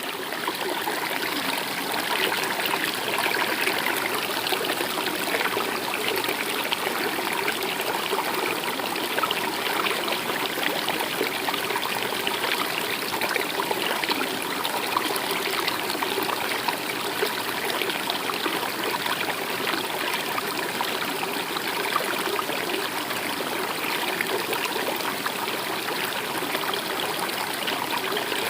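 Stream water flowing, a steady, unbroken rush of running water.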